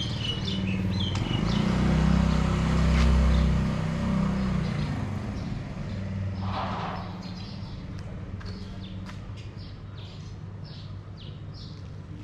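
A motor vehicle's engine passes close by, loudest about two to four seconds in, then fading away. Birds chirp at the start.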